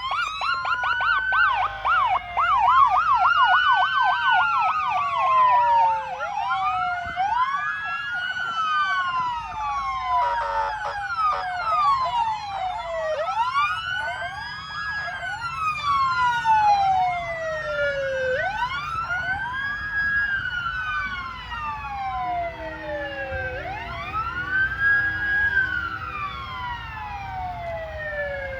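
Several emergency-vehicle sirens wailing at once, their pitches rising and falling out of step with each other, with a fast yelp in the first few seconds. A low steady tone sounds briefly about three quarters of the way through, over a low engine rumble.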